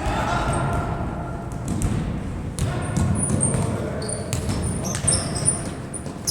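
Sounds of a ball game in play: repeated thuds and knocks of a ball, many short high squeaks, and players' voices.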